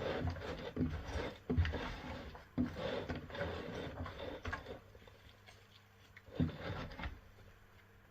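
Topsoil being tipped and mixed by hand into enclosure substrate: rustling and scraping with a few sharp knocks in the first three seconds, quieter after about five seconds.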